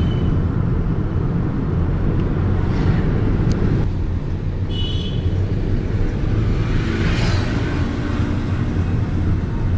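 Steady low road and engine rumble heard inside a moving car's cabin, with a short high-pitched tone about halfway through.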